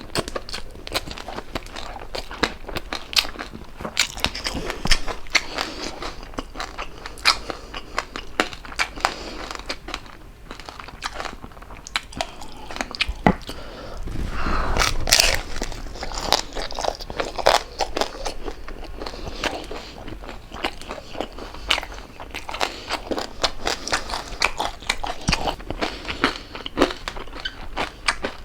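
Close-miked eating of crispy pork jowl: crackling skin crunched between the teeth and chewed with open-mouthed smacking, in many irregular crisp clicks, with a louder crunching stretch about halfway through.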